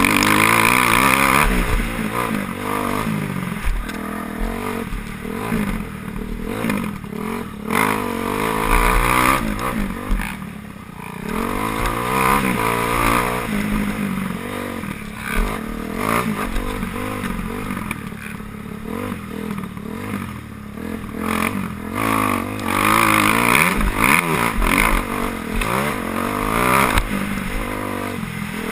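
Motocross bikes racing, their engines revving up and falling off again and again as riders work the throttle through the course, with several bikes often heard at once and rising and fading as they pass.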